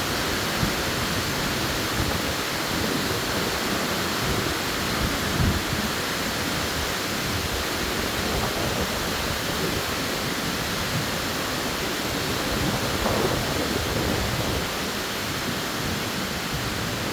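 Tropical-storm wind blowing hard through the trees in a steady rush that swells slightly with gusts, with wind buffeting the microphone.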